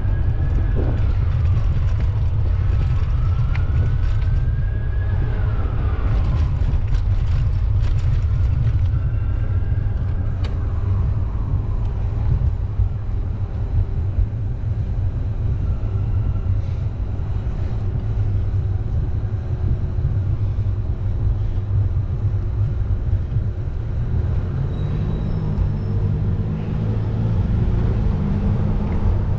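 Street traffic with a steady low rumble throughout. Rising and falling whines pass during the first dozen seconds, and a steady engine hum comes in near the end.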